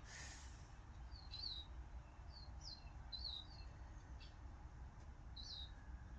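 Faint bird chirps, short rising-and-falling notes heard about seven times at irregular intervals, over a low steady hum.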